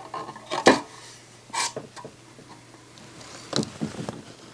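Several sharp clicks and knocks from the CD player's parts being handled, the loudest about half a second in, with others a second and a half in and near the end.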